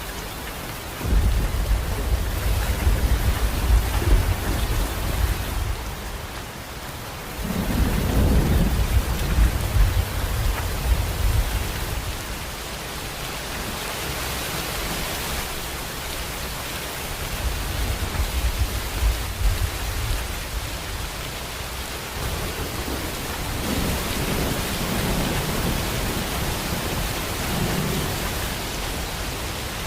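Steady heavy rain with thunder rumbling low under it: a long rumble starting about a second in, another starting around seven seconds, and weaker ones later on.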